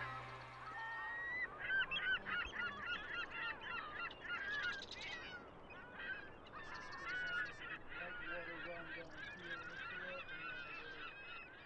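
A flock of birds calling, many short honking calls overlapping one another, typical of a flock of geese. Before it, a music track fades out about a second in.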